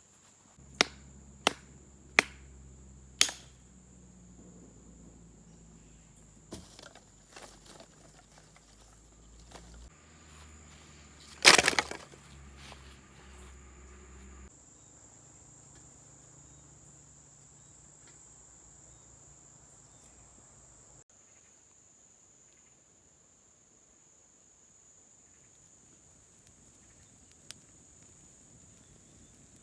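Sharp chopping strikes on wood: four evenly spaced blows in the first few seconds, then a louder burst of cracking and splintering about eleven seconds in. A steady high insect drone runs underneath.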